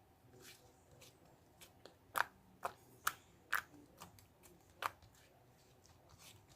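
A series of sharp clicks or taps, about half a second apart, loudest in the middle of the stretch, over a quiet room.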